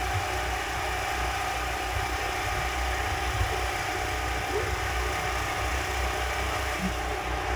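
Steady low rumble of an idling engine, even in level throughout.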